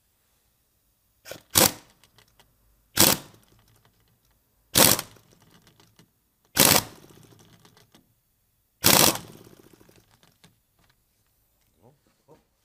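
Pneumatic impact wrench hammering in five short bursts a second or two apart, run up to the stop to tighten the alternator's overrunning pulley on a 1.9 TDI.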